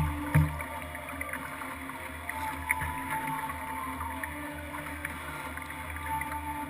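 Kayak on the water: water sloshing and dripping against the hull, with scattered small ticks and one knock about half a second in, picked up by a GoPro mounted on the kayak.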